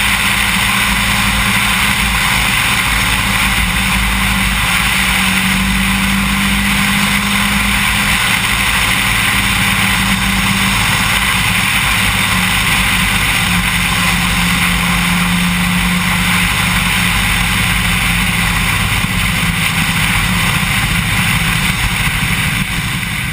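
A car engine, an Opel Kadett E (Astra Mk2) with a swapped-in Saab engine, running at a fairly steady pitch that shifts slightly a few times, under a steady rush of road and wind noise. There is no hard rising pull.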